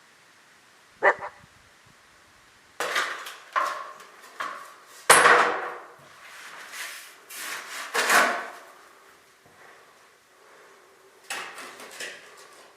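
Irregular knocks and short scrapes of hand masonry work, tools striking and scraping brick and mortar while holes in a wall are filled. The strongest knock comes about five seconds in.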